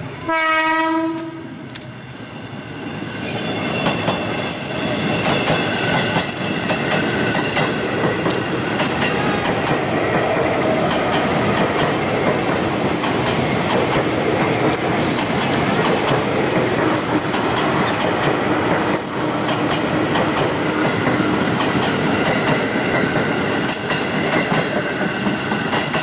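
A short horn blast of about a second, then a JR 205 series electric commuter train passing close by, its wheels clacking over the rail joints and squealing at times.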